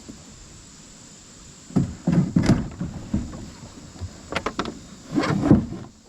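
Kayak and its gear knocking and clattering in irregular bunches, starting about two seconds in after a steady low hiss, as the kayak comes in at the boat ramp.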